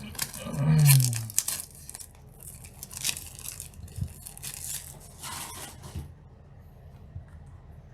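Plastic shrink wrap being torn and crinkled off a trading-card deck box, in a string of short rustles and rips. About a second in there is a brief low sound falling in pitch, the loudest moment, and the handling stops about two seconds before the end.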